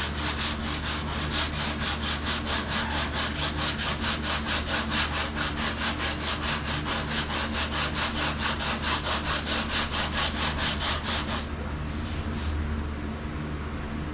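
Sandpaper scrubbing back and forth by hand over the painted body panel of an old truck, in quick even strokes about four a second, scuffing off old paint. The strokes stop near the end, with a couple of brief ones after.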